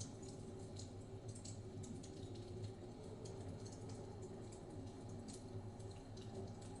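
Wood fire crackling in a fireplace: irregular small pops and snaps over a low, steady background rumble.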